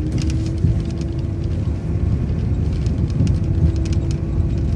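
City transit bus running at low speed during a turn, heard from the cabin: a steady low rumble with an even hum above it and scattered light clicks and rattles.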